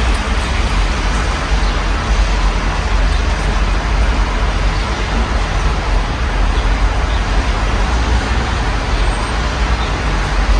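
Steady rain heard through an open window, an even hiss over the low rumble of road traffic.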